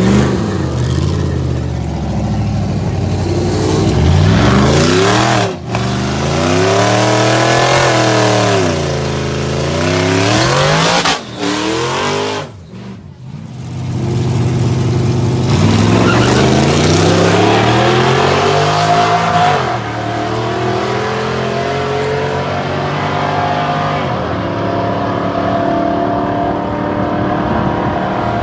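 Drag-racing vehicle engines revving up and falling back several times, with short breaks where the sound cuts between clips, then holding a steadier note.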